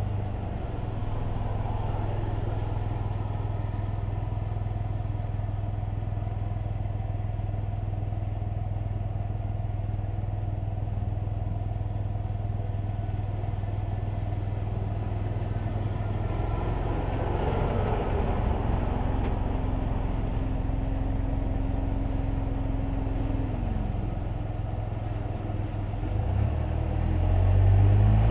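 Kei car cabin noise while driving: a steady low engine drone under road and tyre noise. Near the end the engine note rises and gets louder as the car picks up speed.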